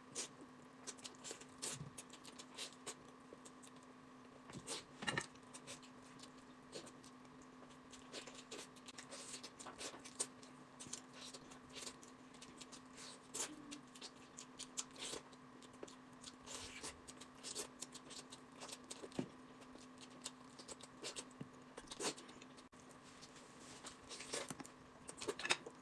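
Faint, scattered eating sounds: chewing and gnawing braised pork off the bone, with small clicks and smacks throughout over a faint steady hum.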